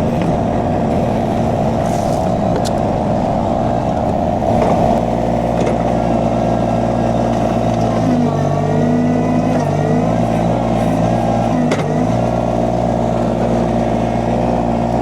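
Derette XC1100 mini skid steer engine running steadily, its pitch wavering for a few seconds partway through.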